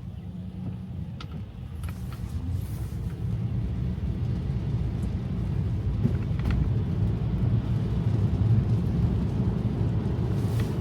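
Tyre and road noise heard inside a Tesla electric car's cabin on a wet road: a steady low rumble that grows louder as the car gathers speed. A few faint clicks sound through it.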